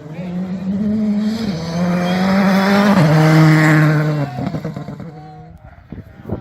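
Rally car passing at full throttle, its engine note holding high and then dropping in two steps as it shifts up twice. It is loudest a little past the middle, then fades away.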